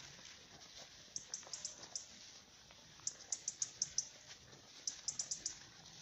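A songbird singing three short phrases of quick, high chirps, about a second and a half apart.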